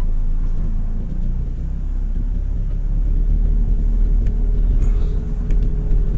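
Diesel engine of the vehicle running as it drives off, heard from inside the cab: a steady low rumble that grows louder about halfway through as it picks up speed.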